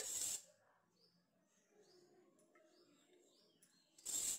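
A bird chirping faintly in the background, a short chirp about once a second. Two brief loud bursts of hiss, one at the very start and one about four seconds in, stand out above it.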